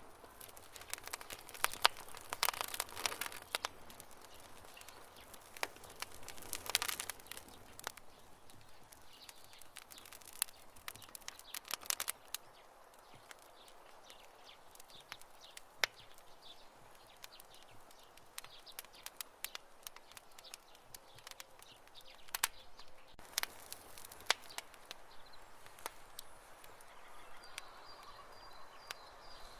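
Wood campfire crackling: irregular sharp pops and snaps over a soft hiss, bunching into quick runs of crackles a couple of seconds in and again about seven seconds in.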